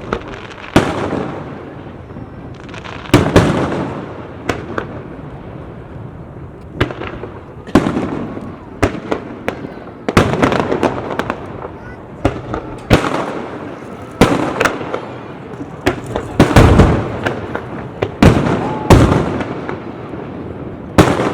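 Aerial fireworks shells bursting in irregular quick succession, a dozen or more sharp booms each trailing off in a rolling echo, with smaller sharp pops in between.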